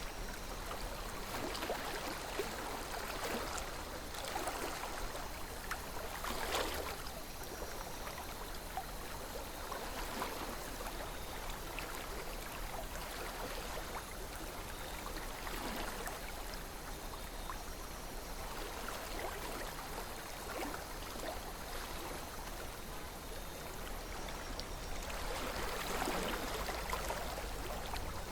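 A river flowing steadily, its water trickling and gurgling with small splashes.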